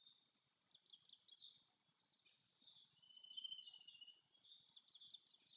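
Faint forest birdsong: several birds chirping in quick, high, falling notes, with a short trill about halfway through.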